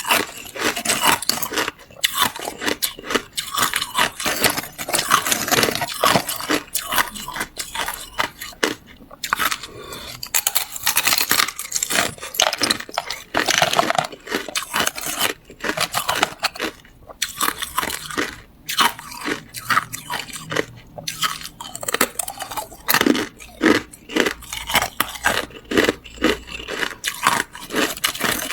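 Hard clear ice being bitten and chewed close to the microphone: dense, irregular crunching and cracking, with short pauses between bites.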